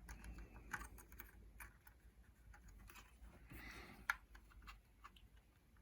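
Faint light clicks and taps of plastic parts being handled, with one sharper click about four seconds in.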